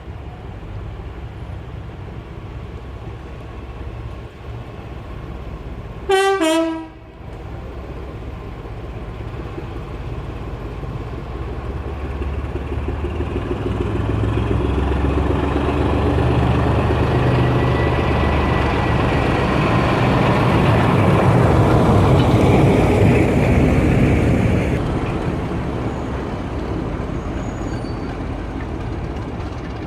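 A train sounds a short two-note horn about six seconds in. The train then rumbles past, getting louder to a peak in the middle and fading away towards the end.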